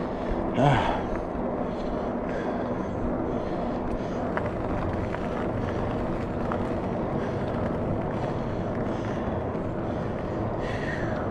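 Steady rush of wind and road noise from riding a Rad Power Bikes RadRover Step-Thru electric bike, with one short, loud sound falling in pitch about a second in.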